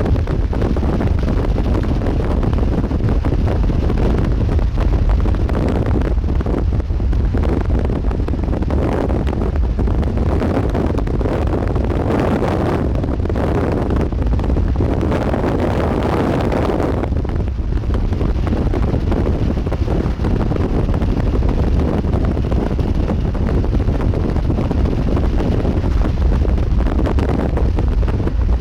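Strong storm wind buffeting the microphone as a steady deep rumble. Gusts swell louder roughly a third to halfway through, then ease back.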